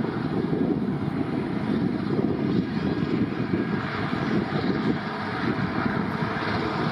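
Airliner engines running with a steady low rumble.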